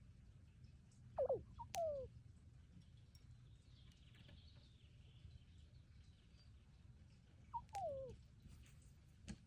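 Crow giving two pairs of short calls, each gliding downward in pitch, about a second in and again some six seconds later. A sharp click sounds just before the end.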